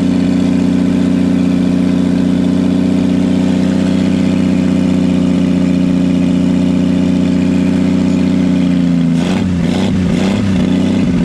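The old six-cylinder engine of a 1938 Chevrolet truck, just revived after sitting 53 years, running at a steady speed. Near the end its speed wavers unevenly for a couple of seconds before it settles.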